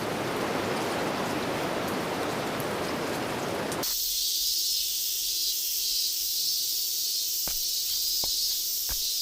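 Heavy rain falling as an even hiss, which cuts off suddenly a little under four seconds in. A steady high insect chorus takes over, with a few faint ticks near the end.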